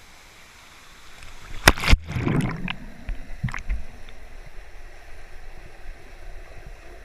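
Two sharp knocks about two seconds in, followed by water splashing and then a steady rush of water.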